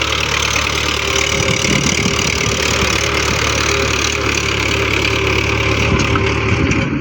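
Tractor engine running steadily at idle, a loud, even drone.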